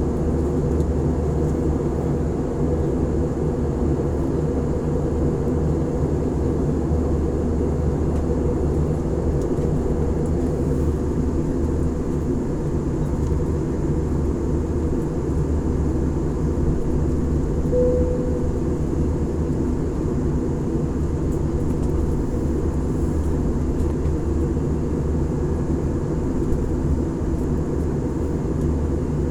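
Steady low drone of an airliner heard from inside the passenger cabin, unchanging throughout. A brief faint tone sounds about 18 seconds in.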